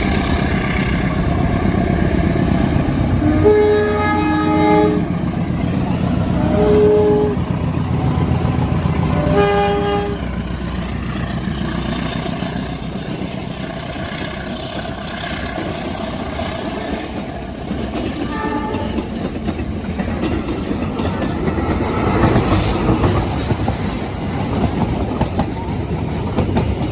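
A train running past with a steady rumble and wheel clatter, its horn sounding a few short blasts in the first ten seconds and once more, fainter, a little past halfway.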